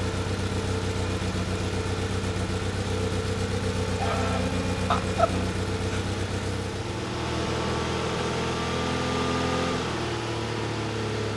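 Fiat Panda 4x4's small four-cylinder petrol engine running steadily at idle, its note shifting lower about seven seconds in. The owner notes a small exhaust blow still to be fixed.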